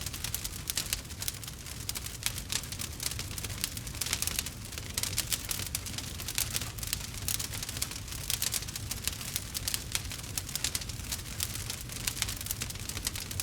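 Wood fire crackling steadily, with dense, irregular sharp pops and snaps over a low rumble of the flames.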